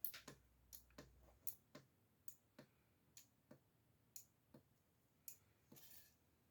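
Faint, short clicks at uneven spacing, about two a second, over near silence.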